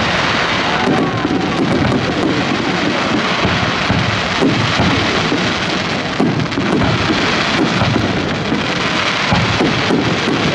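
High-altitude aerial fireworks: a continuous barrage of shell bursts and dense crackling that run together into a steady rumble with no pauses.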